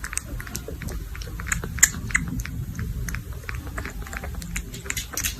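An animal chewing, with many quick, irregular wet clicks.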